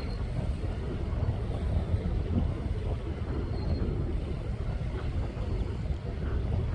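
Wind buffeting the microphone: a steady, rough low rumble that rises and falls in gusts.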